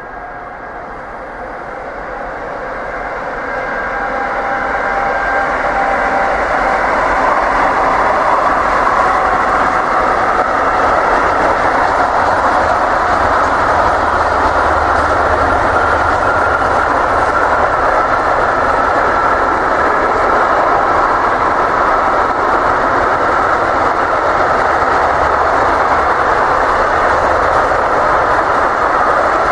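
Container freight train hauled by an electric locomotive rolling past, a steady rush of wheels on rail with some clickety-clack from the wagons. It grows louder over the first several seconds as the train approaches, then holds steady as the long line of container wagons goes by.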